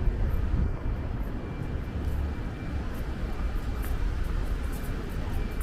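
Steady low rumble of city road traffic, with a faint thin high tone coming and going.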